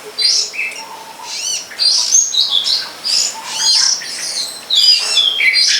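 Long-tailed shrike (cendet) singing a fast, varied run of chirps and whistles with hardly a pause.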